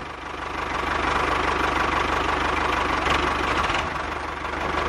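A small motor running steadily, with a fast, even knocking pulse.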